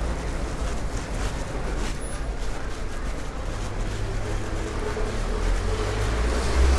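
Steady heavy rain falling, with a vehicle engine approaching and growing louder from about halfway through.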